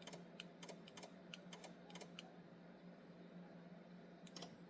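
Faint typing on a laptop keyboard: irregular light key clicks, a run of them in the first two seconds and a few more near the end, over a faint steady hum.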